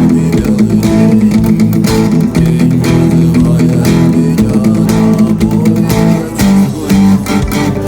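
Instrumental break of a rock song: guitars and bass playing held chords over a steady beat.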